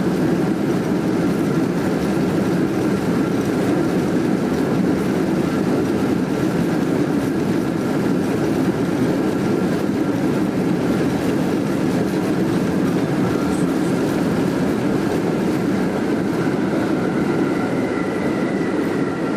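Steady rumble of cabin noise inside a Boeing 747 in flight: an even roar with faint steady whining tones above it.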